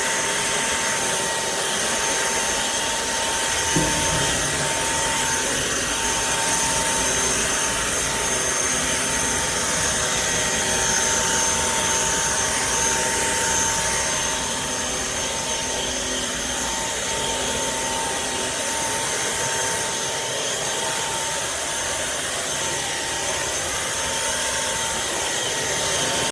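Trucozie cordless stick vacuum cleaner running steadily with a whine, with a single knock about four seconds in; the sound cuts off abruptly at the end.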